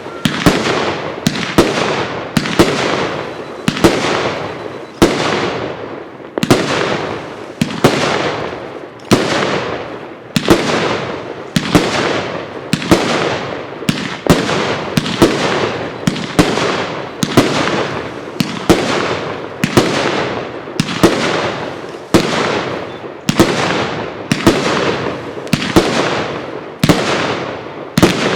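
Consumer fireworks cake (Beautiful Leaves) firing a long, even series of shots, about one and a half a second, each a sharp bang with a fading tail.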